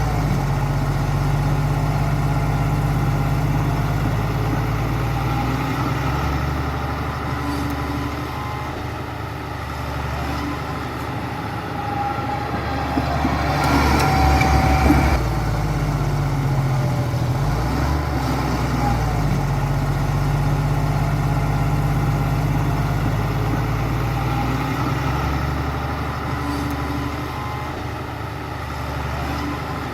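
Heavy diesel engine of a construction machine running and working under changing load, its pitch rising and falling in long stretches, with a louder burst of rattling clatter about halfway through.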